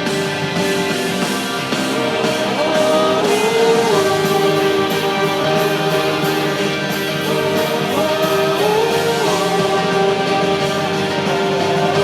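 Live rock band playing an instrumental passage of a pop-rock song, with a guitar holding long notes and bending them up and down over the full band.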